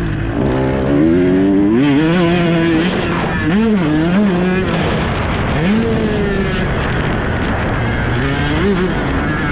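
Motocross dirt bike engine revving hard, its pitch climbing and dropping again several times as the throttle is opened and chopped and gears change.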